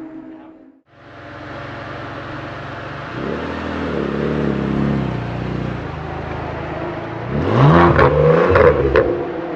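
Ferrari 575 SuperAmerica's V12 with a Novitec Rosso exhaust idling, revved up and down once about three seconds in, then blipped sharply a few times near the end, the loudest part, with a few cracks from the exhaust.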